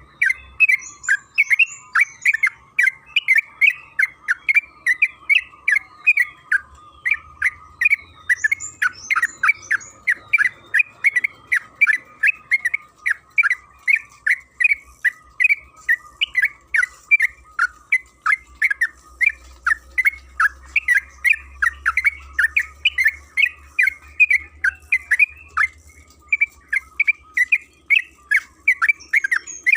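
Yellow-vented bulbul (trucukan) singing a long, unbroken run of short chattering notes, about three a second, the rapid continuous 'ropel' song used as a lure to set other trucukan singing.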